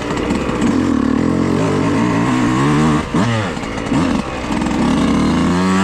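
Dirt bike engine running at low speed, its pitch mostly held steady, with quick throttle blips that dip and rise about three seconds in and again a second later.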